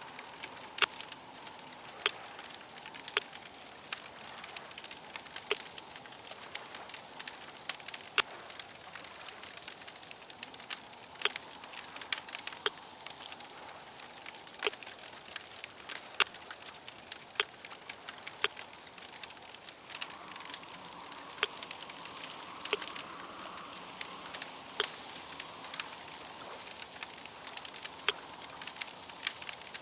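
Fire crackling, with irregular sharp pops over a steady hiss.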